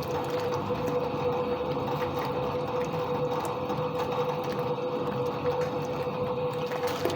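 A Soviet washing machine running a wash: a steady motor hum holding one constant tone.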